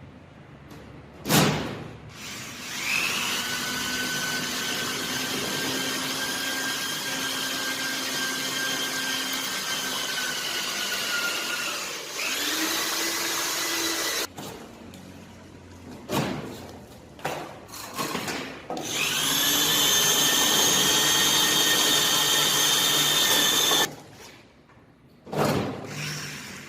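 Electric drill running in three runs. Its motor spins up to a steady whine about three seconds in and runs for several seconds, makes a short second run, then runs again near the end. Sharp knocks come between the runs.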